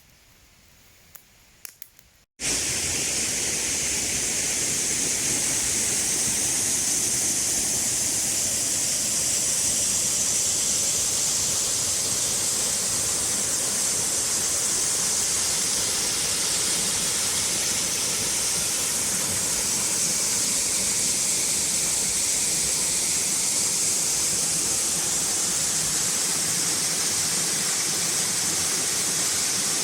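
Faint quiet with a few small clicks, then after about two seconds a sudden cut to the loud, steady rush of a waterfall.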